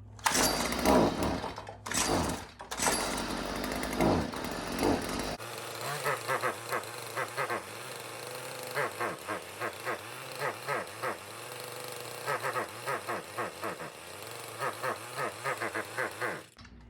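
Stihl FS55R string trimmer's small two-stroke engine revving up and down for the first few seconds, then running with rapid uneven popping in short bursts. The owner finds little power in it.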